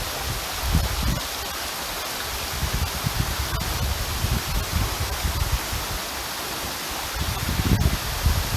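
Waterfall's falling water: a steady, dense rushing hiss, with uneven low rumbles coming and going underneath.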